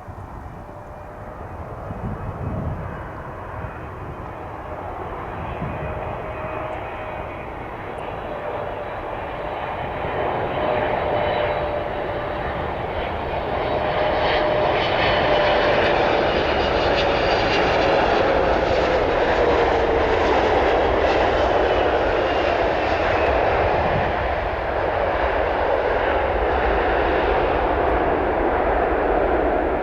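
Jet airliner flying past: its engine noise builds steadily, then the engine whine drops in pitch as the aircraft passes, and the sound stays loud to the end.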